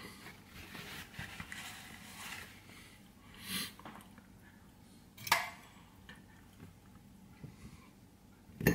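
Faint mouth sounds of a person chewing a bite of salmon, with a few short sharp sounds about five seconds in and again near the end.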